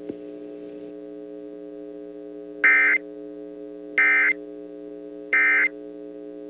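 Emergency Alert System end-of-message code: three short bursts of screechy digital data, evenly spaced about a second and a third apart, over a steady low multi-tone hum.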